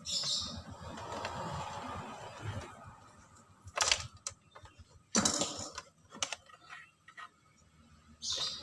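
Sharp clicks, clacks and scraping of tools and parts being handled, with two louder clacks in the middle.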